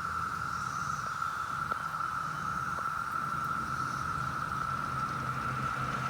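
Brood X periodical cicadas in full chorus: one steady, unbroken high drone, with a low rumble underneath.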